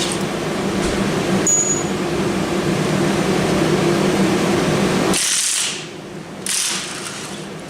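A power tool runs steadily with a low hum while bolts are taken out to free the bell housing from the engine. It stops suddenly after about five seconds and is followed by two short hisses.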